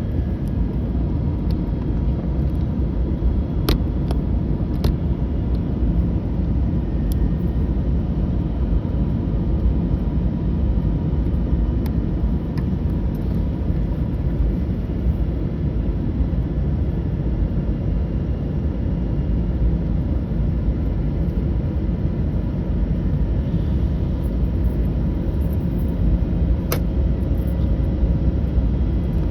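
Steady low rumble inside the cabin of an Airbus A321neo in flight: engine and airflow drone. A few faint clicks come through it, once around four seconds in, again shortly after, and once near the end.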